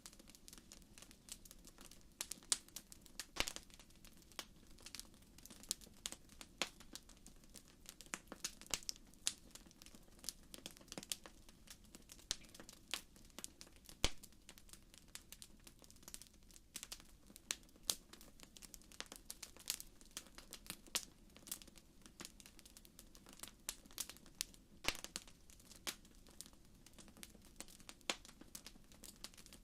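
Wood fire burning in a fireplace, crackling with many irregular sharp pops and snaps over a faint steady hiss.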